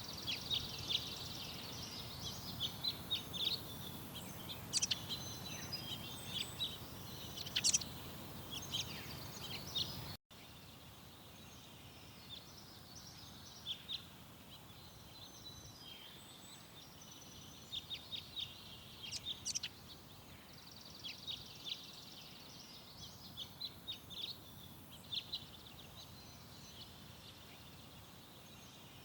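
Garden songbirds chirping and trilling in many short, repeated calls over a steady background noise. About ten seconds in there is a brief dropout, after which the background is quieter and the birdsong goes on more softly.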